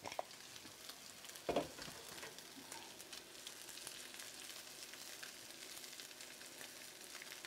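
Faint, steady sizzle and crackle of food frying in a hot skillet as the pieces are turned with tongs, with a single knock about a second and a half in. The food is frying until it is far too crispy.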